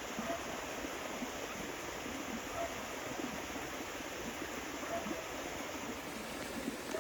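Steady rushing noise, like flowing stream water.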